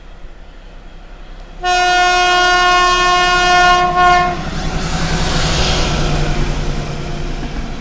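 SU46 diesel locomotive sounding its horn, one steady tone about two and a half seconds long, then running past with engine and wheel noise.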